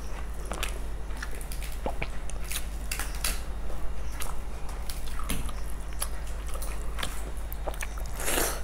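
Close-miked eating sounds: people chewing mouthfuls of rice and curry, with frequent wet mouth clicks and smacks, and one longer, louder noise near the end.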